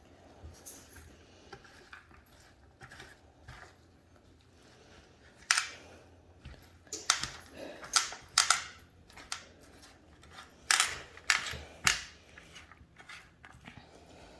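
Irregular sharp clicks and crackles of hands and utensils handling food prep, sparse at first and coming thick and fast from about five seconds in.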